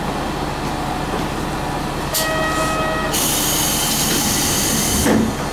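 Diesel railcar running with a steady low rumble. About two seconds in, a hiss with a faint steady tone begins, then widens into a strong high air hiss that lasts about two seconds before stopping.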